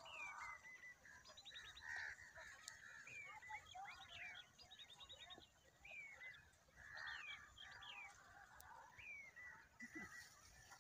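Faint calls of several wild birds: repeated short chirps sliding downward in pitch, mixed with quick rattling trills.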